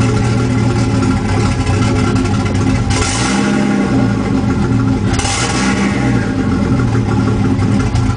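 Nissan RB25DET turbocharged straight-six, with an open downpipe, idling roughly just after its first start on the unchipped stock computer, with valvetrain clatter. Two short hissing surges come through about three and five seconds in.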